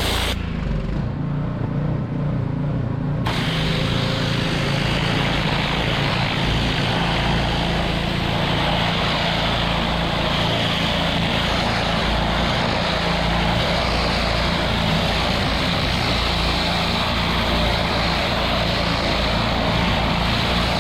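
Pressure washer running steadily, its engine drone under the hiss of the water jet. The spray hiss cuts out about half a second in and comes back about three seconds in while the engine keeps running.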